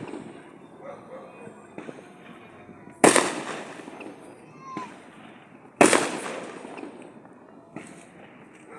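Fireworks: two loud aerial shell bursts about three seconds apart, each followed by a rumbling tail that fades over a second or two, with faint smaller pops in between.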